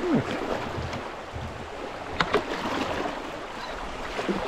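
Shallow creek water rushing around a kayak, with two sharp knocks a moment apart about two seconds in.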